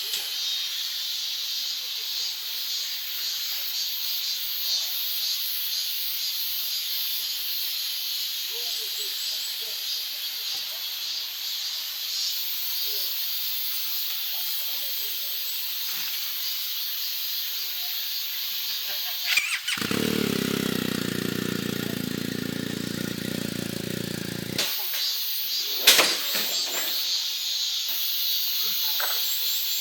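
Crickets and other grass insects chirping at night in a dense, steady, high-pitched chorus. About two-thirds of the way through, a steady low hum replaces it for about five seconds, followed by a couple of sharp clicks.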